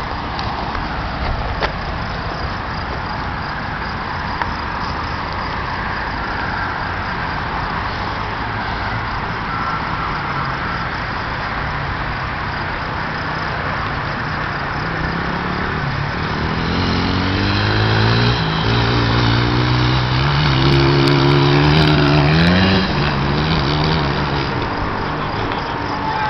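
100 cc dirt bike engine running over a rushing noise. From about fifteen seconds in, the engine note rises in pitch and grows louder, is loudest just past twenty seconds, then eases off near the end.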